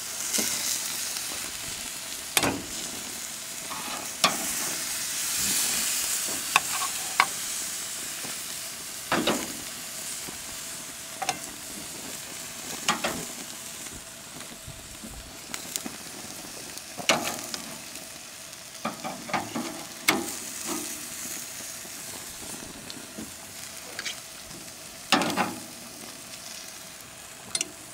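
Meat sizzling on a propane barbecue grill, a steady hiss, with scattered short clicks and knocks now and then.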